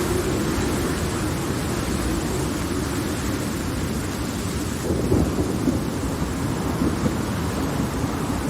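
Steady heavy rain with thunder rumbling, a fresh roll of thunder swelling about five seconds in.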